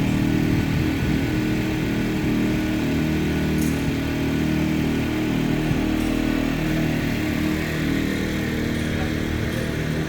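Tsuzumi TIG 2000 IS 2000-watt generator's small engine running at a steady speed.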